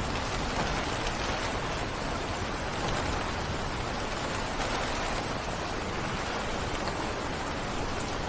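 Heavy rain falling steadily, an even hiss of dense rainfall.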